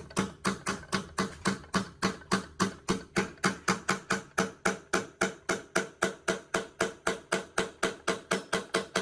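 Rapid, evenly spaced hammer blows, about four a second, each with a short ring, stopping at the very end.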